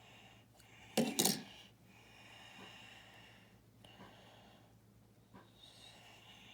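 Plastic building-brick pieces clicking and clattering as they are handled: a quick burst of two or three sharp clicks about a second in, then a few faint clicks.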